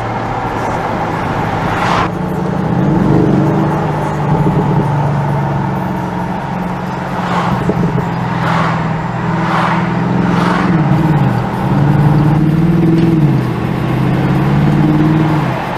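The 4.0-litre twin-turbo V8 of a Bentley Continental GT V8 S, breathing through its sports exhaust, heard on a ride in the car. The deep engine note climbs and drops several times as the car pulls through the gears.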